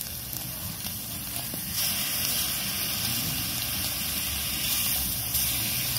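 Longanisa sausage and pork chops sizzling on a cast iron griddle over a campfire: a steady hiss that gets a little louder about two seconds in.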